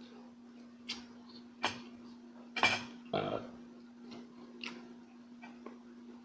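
Close-miked eating sounds: scattered wet smacks and chewing clicks, with a louder, longer mouth sound about two and a half seconds in, over a steady low hum.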